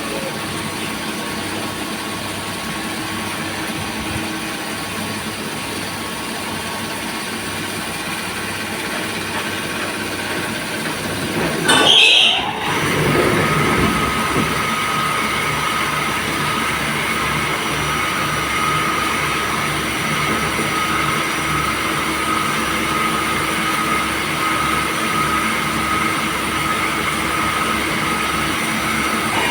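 CNC lathe running: a steady machine hum and whine, with a brief louder burst and pitch sweep about twelve seconds in, after which a steadier, slightly louder whine over a pulsing low hum settles in.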